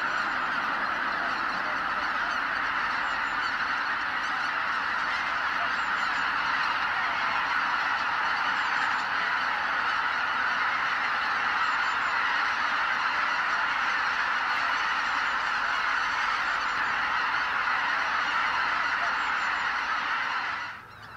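A vast flock of greater white-fronted geese honking all at once in a dense, unbroken din as the birds take off en masse. The chorus stays steady, then falls away abruptly near the end.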